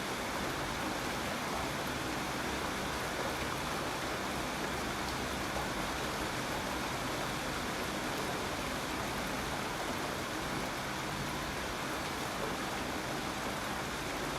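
Steady rain falling, an even hiss without distinct drops or pauses.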